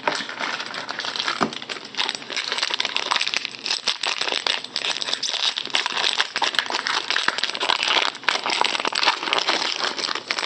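Trading-card pack wrappers crinkling and rustling continuously as packs are handled and opened, with small clicks of cards being handled.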